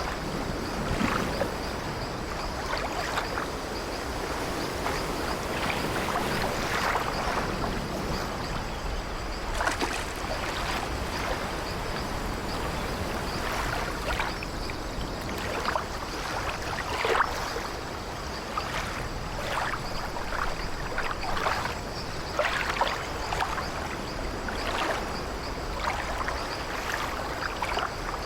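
Sea waves washing against an old wooden ship, with short, irregular creaks and sloshes of the timbers scattered throughout.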